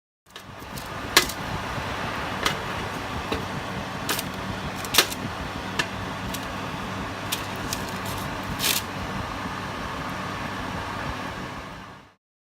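Fan oven running with a steady hum, with a handful of sharp clicks over it.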